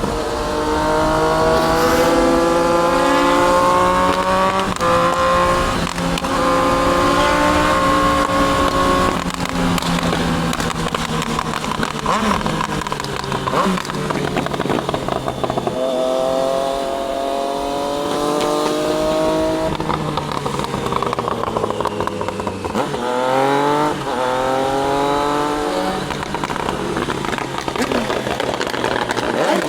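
Triumph Daytona 660's inline three-cylinder engine pulling hard through the gears, its pitch climbing and dropping at each upshift. There are several runs of acceleration with easing off between them, and a steep, fast rev climb near the end.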